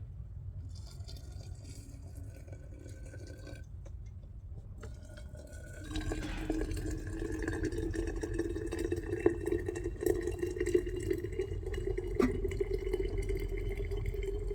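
Water running steadily into a container, starting about six seconds in, with a few light knocks.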